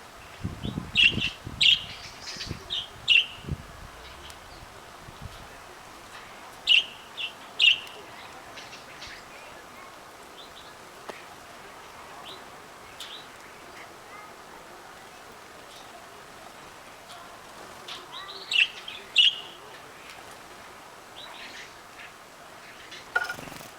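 Caged canaries giving short, scattered chirps and call notes rather than sustained song, in small clusters with pauses between. There is some low rustling in the first few seconds.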